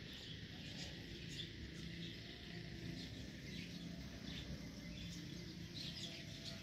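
Scattered bird chirps and calls over a low, steady background rumble.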